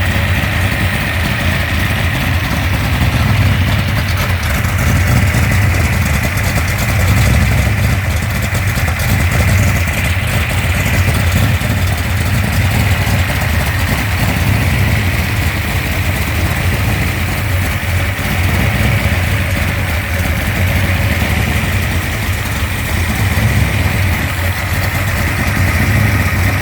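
Dodge 360-based 406 cubic inch stroker V8 idling steadily on its freshly broken-in camshaft.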